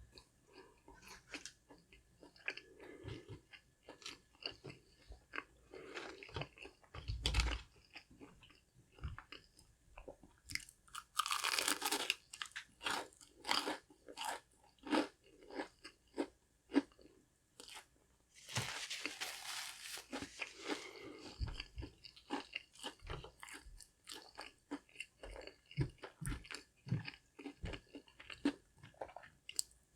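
A person chewing and biting crunchy fried fast food close to the microphone: a run of crisp crunches, with two longer, louder stretches of crunching about 11 and 19 seconds in.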